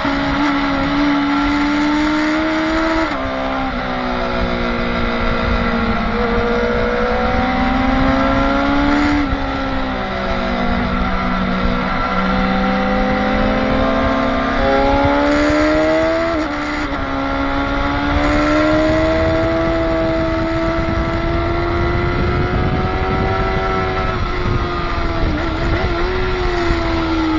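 Motorcycle engine at high revs on a race track, its note climbing and falling with acceleration, braking and gear changes, with sharp shifts about three seconds in and again around sixteen seconds, over a steady rush of wind noise.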